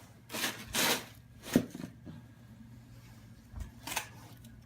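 Snow shovel scraping and swishing through deep snow in several short strokes, with one sharp thump about a second and a half in.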